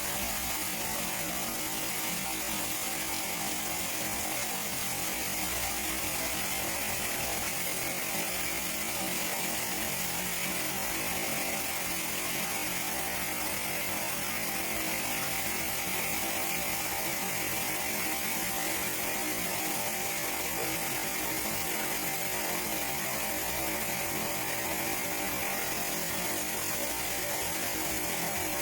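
Artificial waterfall: water pouring and splashing in a steady, unbroken rush.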